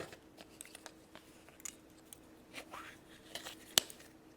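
Small crackles and clicks of a chocolate surprise egg being broken open and its plastic toy capsule handled, with one sharper click near the end.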